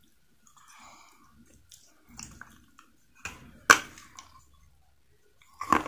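Biting and chewing brittle pieces of baked clay: soft chewing, one sharp crunching crack a little past halfway, then more crunches near the end.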